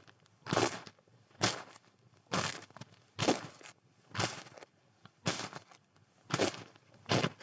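Footsteps crunching through snow at a steady walking pace, about one step a second, each step a short crunch.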